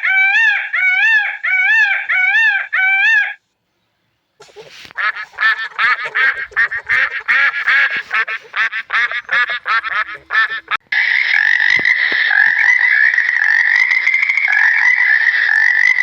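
Waterfowl calling. It begins with evenly repeated honking calls, about two a second, for three seconds. After a short break comes a rapid chatter of many overlapping calls, and about halfway through this gives way to a steady, dense din.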